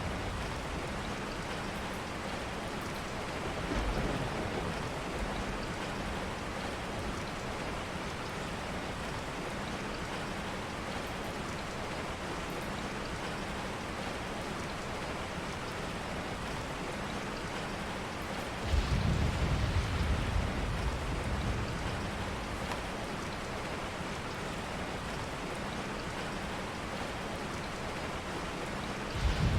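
Steady, even rain falling, with low thunder rumbles: a small one a few seconds in, a louder one starting suddenly about two-thirds of the way through and lasting a few seconds, and another at the very end.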